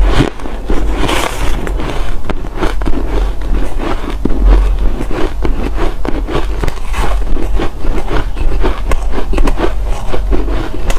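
Ice cubes being bitten and chewed close to the microphone: a loud, continuous run of sharp crunches and crackles.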